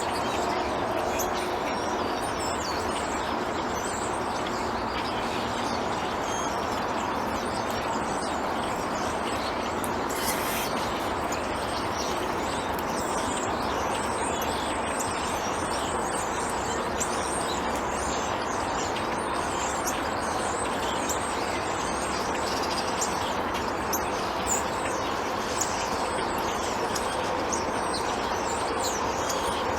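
Small birds chirping and tweeting in short, high calls over a steady background noise.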